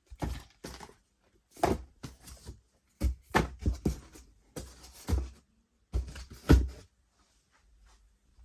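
Irregular handling noises: a dozen or so short knocks, thuds and scuffs as items are moved and set down, with the loudest about six and a half seconds in. The noises stop near the end.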